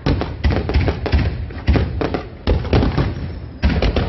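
Aerial fireworks bursting in quick succession: a string of sharp bangs, several a second, with crackling between them and a short lull near the end.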